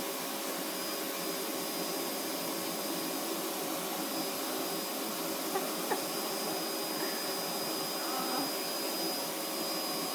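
Vacuum cleaner running steadily: an even rushing noise with a constant high whine.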